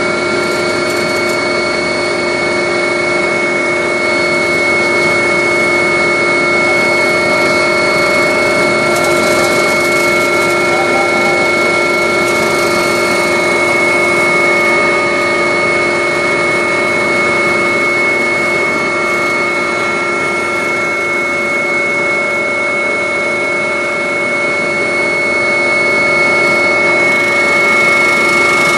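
Agusta helicopter running, heard from inside the cabin: a steady engine and rotor din with several constant whining tones, unchanging throughout.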